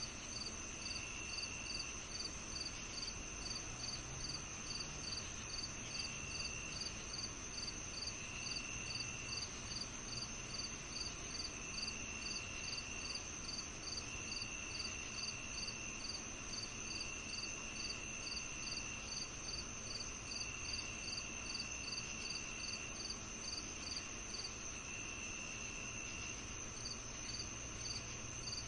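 Crickets and other insects chirping together. A steady high trill runs under a regular chirp, about two to three a second, which pauses briefly near the end. A lower trill comes and goes in stretches of one to two seconds.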